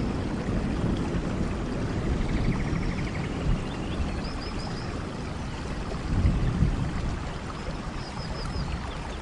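Steady rain, a dense even hiss with low rumbling swells. Short high chirps come in quick runs of three or four, about four seconds in and again near the end.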